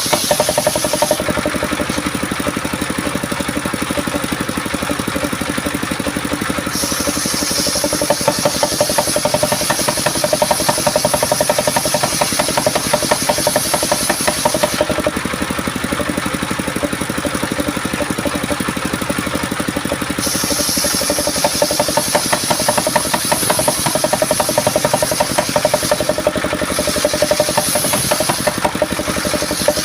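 Engine-driven homemade sawmill running steadily while sawing coconut-palm wood. A high hiss from the blade comes and goes in stretches of several seconds over the steady machine noise.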